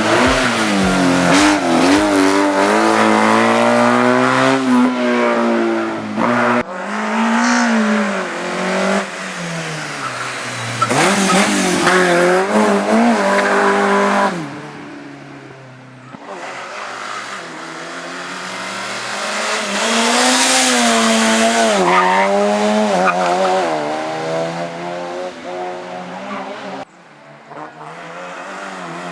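Race car engine driven hard through a slalom course, revving up and down over and over as it brakes and accelerates between chicanes. Its pitch rises and falls repeatedly, with two clear drops in loudness, about halfway through and near the end.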